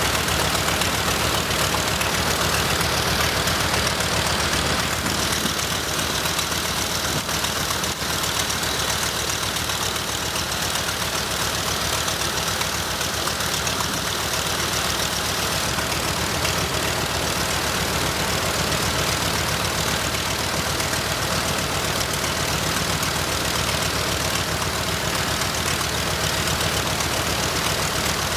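The Nakajima Sakae 21 fourteen-cylinder radial engine of a Mitsubishi A6M5 Zero fighter running steadily and loudly, with no change in speed.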